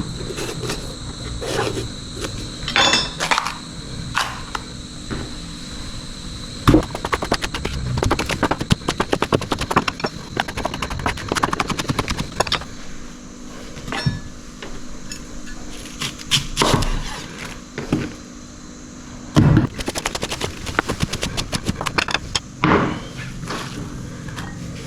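Kitchen knife dicing capsicum on a cutting board: runs of quick, sharp chopping strokes with short pauses between them.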